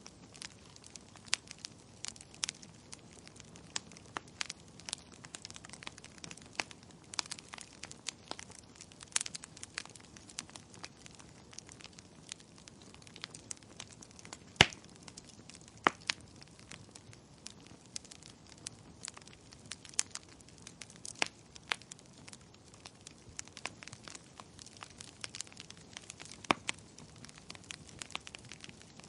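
Wood fire in a fireplace crackling: a soft steady hiss with irregular sharp pops and snaps of burning wood, the loudest pop about halfway through.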